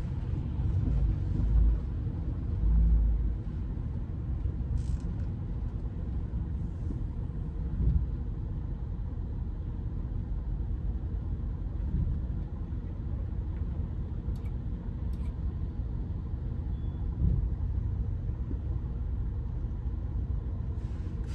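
Steady low rumble of a car moving slowly while parking, with a few dull thumps.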